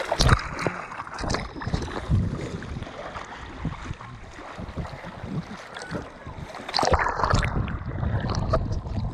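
Ride on a jet ski over open water: wind buffeting the microphone over rushing, splashing water, with louder surges just after the start and again about seven seconds in.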